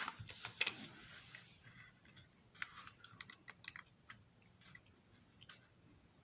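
Light clicks and scratchy rustles of small plastic model-train parts being handled, busiest in the first second and then sparse and irregular.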